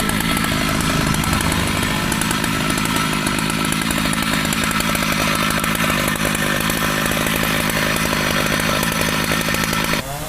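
Petrol chainsaw running steadily as it cuts through mahogany wood, then cutting off abruptly near the end.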